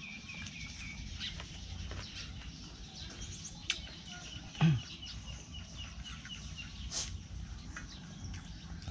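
Birds calling: one loud, short call about halfway through that drops in pitch, over faint rapid high chirping.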